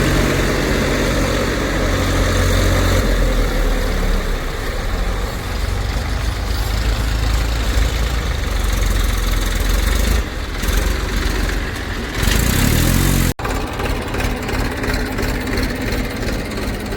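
Heavy diesel engine of earth-moving or farm machinery running steadily under load. About twelve seconds in it revs up with a rising pitch, then breaks off abruptly and the engine carries on.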